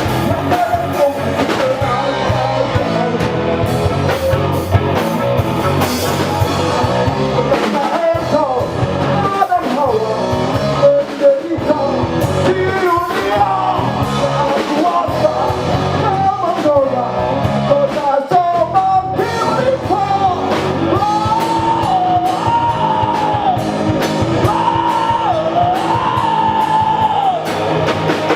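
Live band playing rock music with a lead singer and electric guitar.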